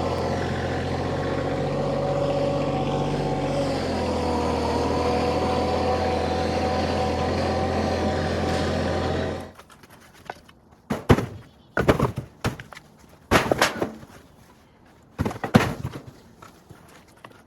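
Kioti compact diesel tractor engine running steadily, with a slight change in pitch part way through. It stops abruptly about nine and a half seconds in, followed by a string of sharp separate knocks.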